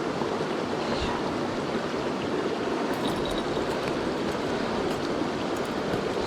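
Mountain stream rushing steadily over rocks, a constant full water noise.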